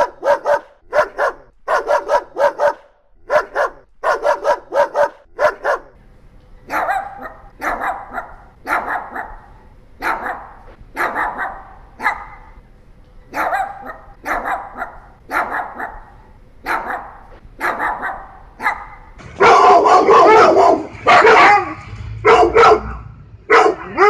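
A succession of dog breeds barking. First a Boxer barks in quick runs of several barks. About five seconds in, a Pomeranian takes over, barking singly at an even pace of roughly one to two barks a second. In the last few seconds a Siberian Husky barks louder and more densely.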